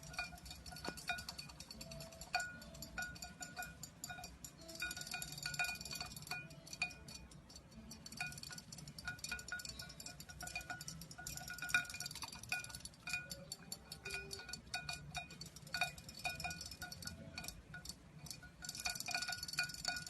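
Faint tinkling, chime-like notes: short ringing tones repeated on a few steady pitches, with scattered light clicks.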